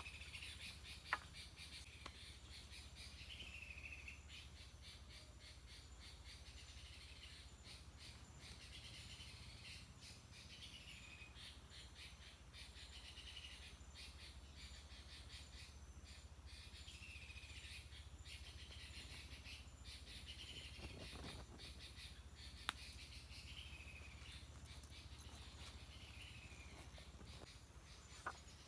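Faint forest ambience: a bird gives short, curving calls over and over, every few seconds, over a faint steady insect hiss. A couple of sharp clicks are heard, one near the start and one near the end.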